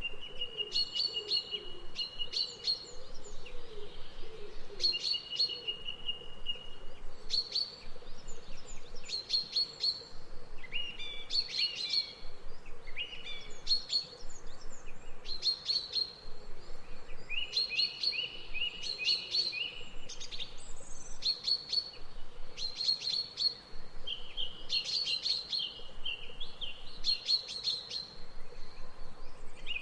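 Songbirds chirping over and over, with short, rapid trills mixed in among the calls.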